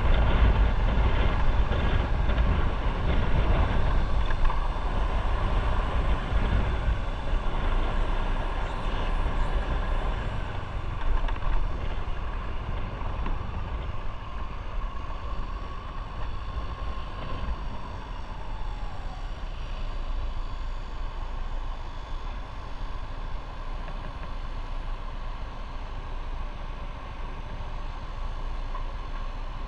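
Motorcycle riding on the road: engine running under a low rumble of wind and road noise on the microphone, gradually getting quieter, with a faint tone that drops in pitch about two-thirds of the way through.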